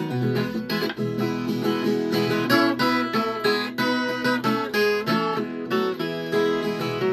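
Viola caipira, the Brazilian ten-string folk guitar with paired steel strings, played solo: a quick run of plucked notes mixed with strums.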